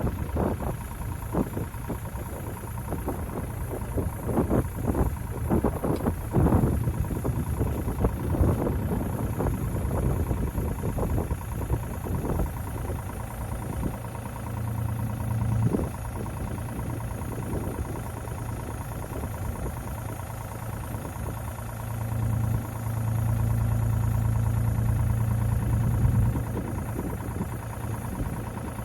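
An engine running steadily at idle, with a string of short knocks and clanks over the first half. About 22 seconds in it gets louder for around four seconds, then drops back to idle.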